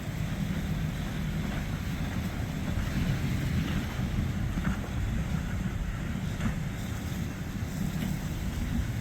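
Steady low rumble of a passing boat's engines, with wind buffeting the microphone.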